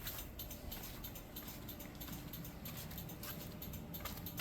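Faint, rapid clicking of a Honda Acty kei truck's turn-signal flasher relay. It is hyperflashing because the LED bulbs draw too little current for the relay without load resistors.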